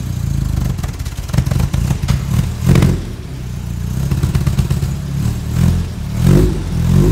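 1959 Triumph TR3A's four-cylinder engine running at low revs as the car is driven slowly, with several short rises in revs.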